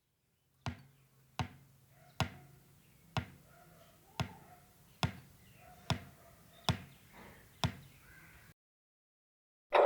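Nine sharp knocks on something hard, about one a second, with a faint low hum beneath them. A loud steady noise starts abruptly at the very end.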